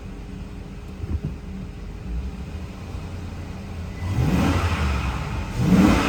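2003 Chevy Silverado 1500's 5.3-litre V8 idling, then revved twice, about four and five and a half seconds in, the second rev the louder. A short knock sounds about a second in.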